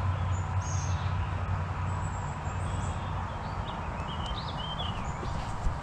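Small birds chirping, short high calls scattered through, over a steady background rush and low hum. A sharp click comes near the end.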